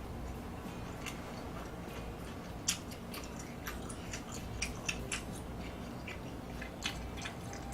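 A person chewing food, with irregular small wet mouth clicks, the sharpest about three seconds in and near the end.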